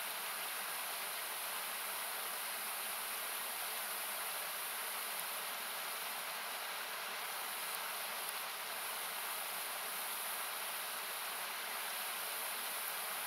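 Steady rushing of a river or small waterfall, hiss-like, with a few narrow bands cut out by equalisation. Faint crackling from a wood campfire comes through now and then.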